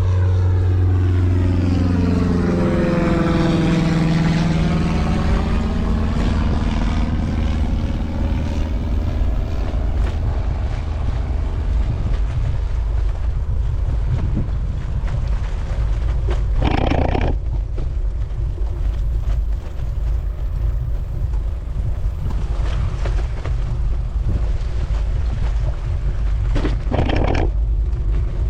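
Wind rumbling on the microphone of a moving bicycle. A motor vehicle passes in the first few seconds, its engine pitch falling as it goes by, and two short rushes of noise come later.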